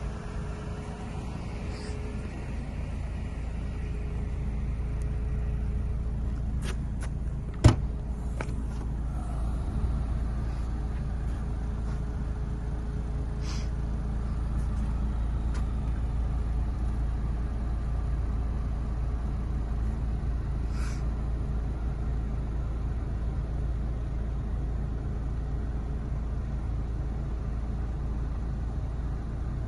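Mercedes-Benz CLC200 Kompressor's supercharged four-cylinder engine idling steadily, with a sharp click about a quarter of the way in.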